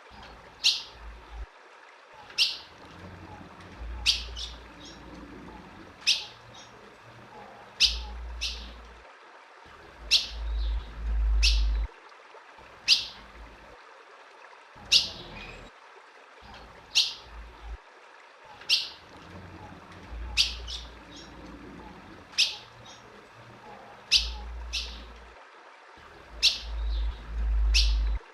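Female ultramarine grosbeak (azulão) giving short, sharp, downward-sweeping chip calls, singly or in pairs every second or two. This is the female call used to stir up male azulões. A low rumble comes and goes several times beneath the calls.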